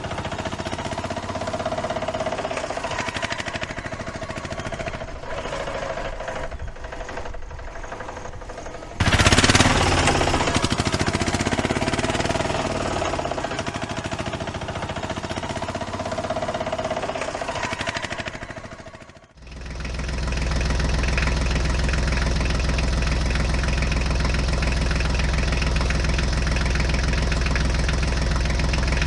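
Engine running, with abrupt changes in sound: it gets suddenly louder about nine seconds in, cuts out briefly near the middle, then settles into a steady, even idle-like run.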